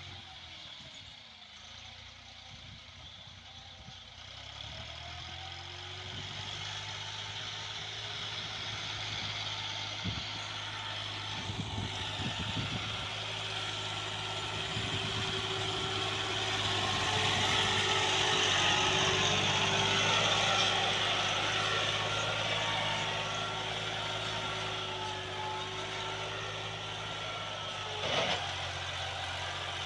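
Massey Ferguson 260 Turbo tractor's diesel engine running steadily, growing louder toward the middle and easing off after. A short knock sounds near the end.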